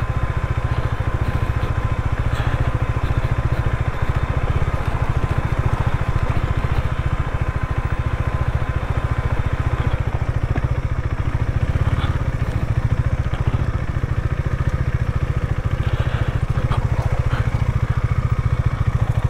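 KTM Duke 390's single-cylinder engine running steadily at an even pace as the motorcycle is ridden along a slippery, muddy track.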